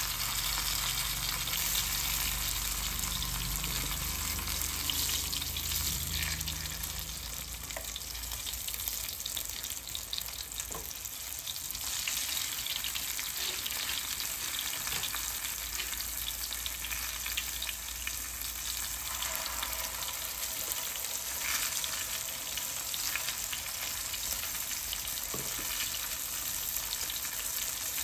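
Eggplant omelette frying in hot oil in a pan: a steady sizzle, with a few light clicks scattered through.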